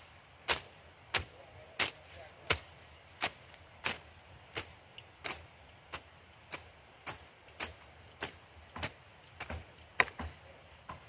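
Steady rhythmic chopping: a hand tool striking hard material in sharp, evenly spaced blows, about three every two seconds.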